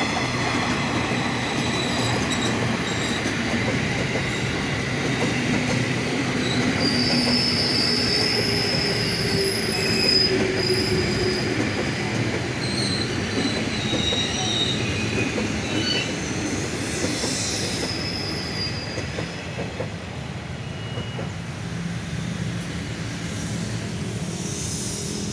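Electric commuter train passing close by at low speed, its steel wheels squealing on the rails in high-pitched squeals that come and go over the steady rumble and clatter of the running gear.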